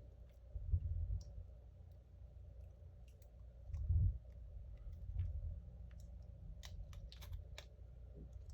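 Small clicks and taps of parts and tools handled on a repair bench: a few dull bumps, then a quick cluster of sharp clicks near the end.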